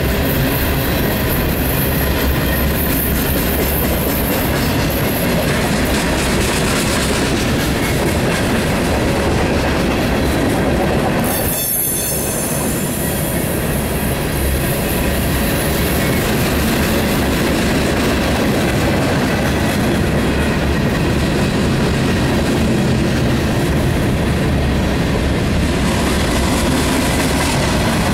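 Coal cars of a freight train rolling past: a steady, loud din of steel wheels on rail, dipping briefly about twelve seconds in.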